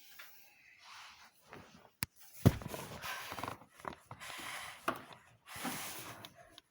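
Handling noises: a sharp click about two seconds in and a thump just after, then irregular scraping and rustling.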